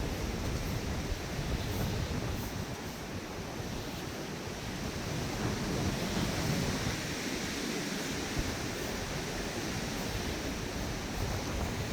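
Steady rushing noise outdoors, with no distinct events, swelling and easing slightly.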